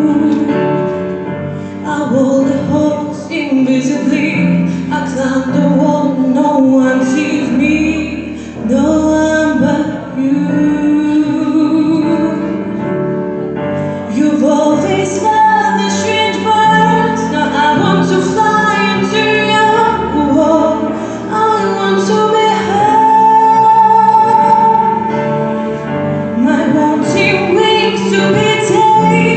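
A song: a woman sings a flowing melody over a full instrumental accompaniment.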